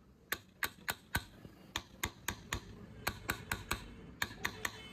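A rapid, uneven series of light, sharp taps, about four a second.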